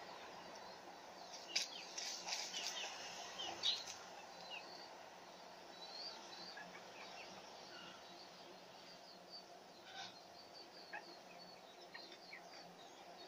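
Faint outdoor garden ambience with small birds chirping here and there. A burst of louder, sharp sounds comes about one and a half to four seconds in.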